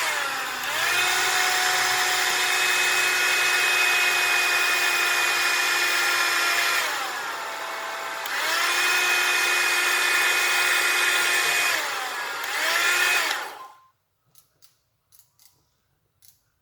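Joy model 809 hair dryer running with a steady motor whine. Its pitch sags and recovers three times: briefly near the start, for about a second and a half midway, and again about 12 seconds in. It then switches off and winds down, and a few faint ticks follow near the end.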